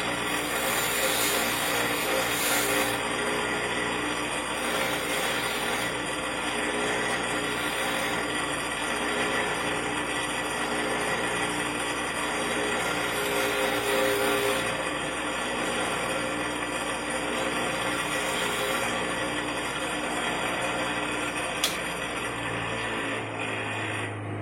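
Power wire wheel running steadily as a bracket is held against it and scrubbed clean; the motor noise stops shortly before the end.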